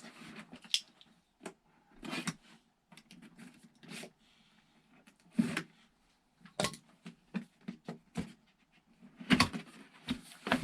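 Cardboard packaging being opened and handled: irregular rustles, scrapes and clicks with short gaps between them.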